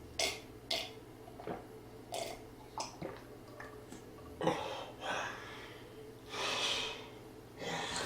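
A person eating: short wet mouth clicks and smacks, then several heavy breaths or snorts through the nose in the second half.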